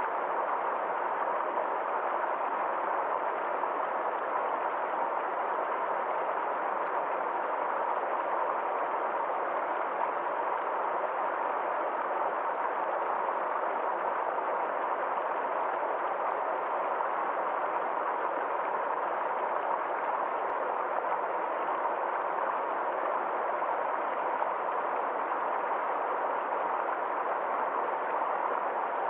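A stream flowing steadily, with a constant even rush of water.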